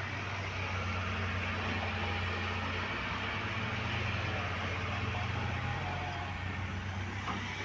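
A motor vehicle engine running at idle: a steady low drone with an even hiss over it.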